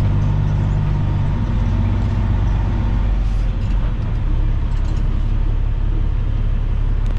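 Semi truck's diesel engine running steadily at low speed, heard from inside the cab as a deep, even hum.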